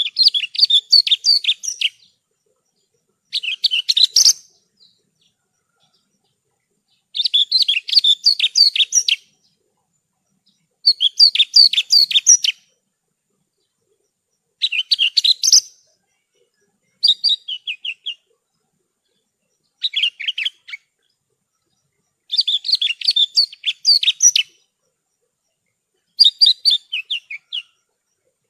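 Javan bushlark (branjangan) singing: about nine short phrases of rapid, high chirping notes, each one to two seconds long, with clean silent gaps of one to two seconds between them.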